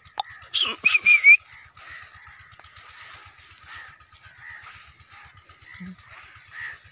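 Birds calling in open farmland: a few loud, harsh calls about a second in, then softer short chirps repeating every second or so.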